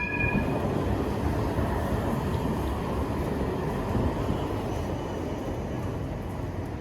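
Steady street traffic noise, a continuous low rumble with no distinct events.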